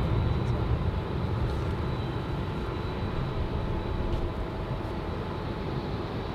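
Low, steady jet engine rumble, slowly fading.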